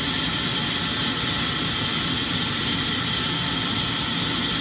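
Sawmill machinery running steadily, a constant mechanical drone with no change in load.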